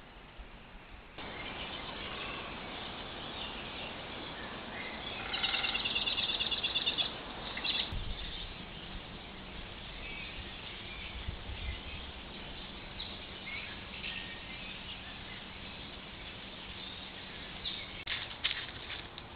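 Woodland ambience picked up by a trail camera's built-in microphone: a steady hiss with bird calls, including a fast trilling call about five seconds in that lasts under two seconds. There are scattered shorter chirps later.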